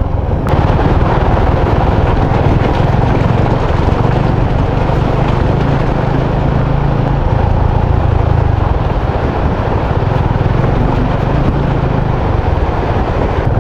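Motorcycle engine running steadily at riding speed, with heavy wind rush over the microphone.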